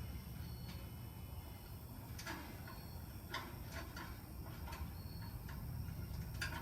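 Scattered light clicks and ticks of small metal grill hardware, a bolt and washer, being handled and fitted, over a steady low hum.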